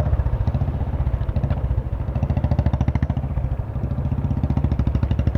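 Motorcycle engine running steadily while riding, with a rapid, even exhaust pulse.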